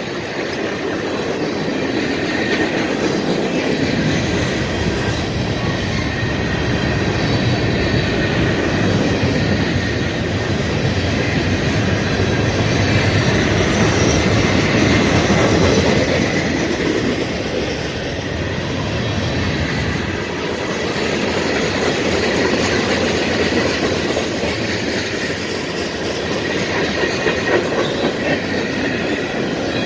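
A CSX mixed freight train's cars rolling past on the track: a continuous, loud rumble of steel wheels on rail that swells and eases a little without stopping.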